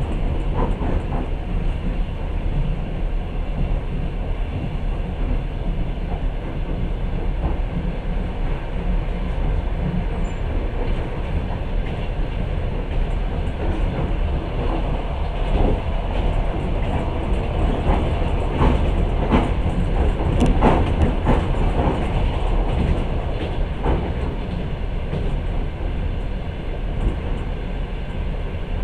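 Passenger train running along the track, heard from inside the carriage: a steady low rumble of wheels on rails, with a run of sharper clacks and knocks in the second half.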